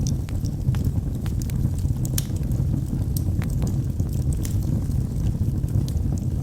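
Wood fire in a fireplace crackling: a steady low rumble of burning logs with sharp pops and snaps at irregular intervals.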